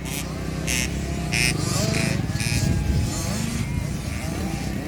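Small 50cc two-stroke motocross bikes racing, their engines revving up and down, with several short bursts of hiss in the first couple of seconds.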